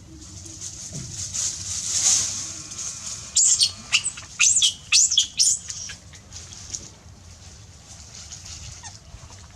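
An animal crying: a hissy, snuffling stretch, then a run of about six short, high-pitched squealing cries between about three and six seconds in. The title puts the crying and its strange sound down to a cold and a runny nose.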